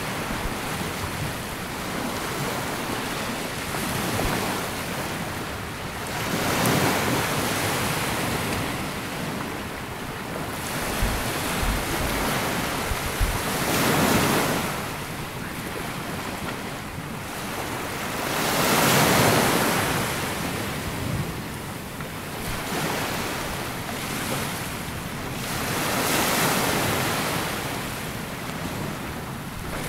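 Sea waves breaking and washing up a sandy beach, swelling and fading in slow surges about every five to seven seconds.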